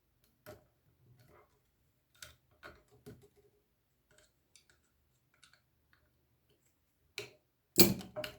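Small clicks and scrapes of flat screwdrivers prying the cover off a removed protection relay, then a few louder clicks and knocks near the end as the cover comes free.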